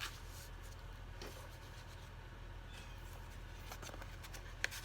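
Faint handling of paper pages and tags in a junk journal, small rustles and clicks with one sharp tick near the end, over a steady low electrical hum.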